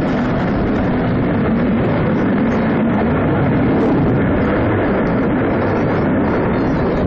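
Panavia Tornado jets' twin RB199 turbofan engines roaring in a steady, loud rumble as the aircraft pass, swelling slightly about halfway through.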